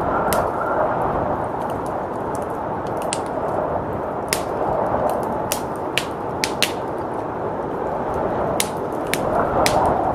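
Wood fire crackling with sharp, irregular pops over a steady rush of blizzard wind, the wind growing louder near the end.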